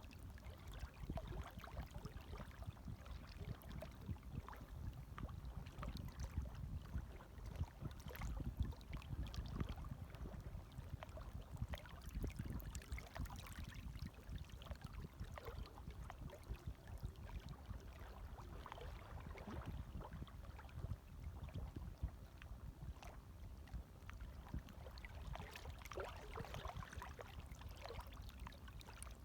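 Gentle waves lapping softly: a steady low wash with small scattered splashes.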